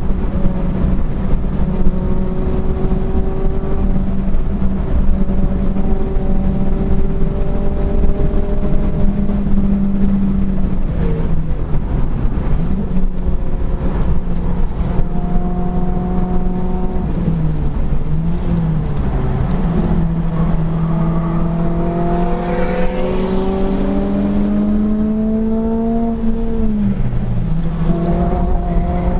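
Four-cylinder hot-hatch engine heard from inside the cabin at speed, over steady road and wind noise. The engine note holds steady, wavers and dips a few times around the middle as the driver lifts and changes gear, then climbs under hard acceleration and drops with a gear change near the end.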